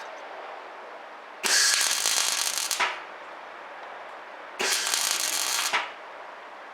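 Semi-automatic (MIG) welder laying two short stitch welds on a steel patch plate on a JB23 Jimny's bulkhead: two crackling, hissing bursts of a little over a second each, about three seconds apart.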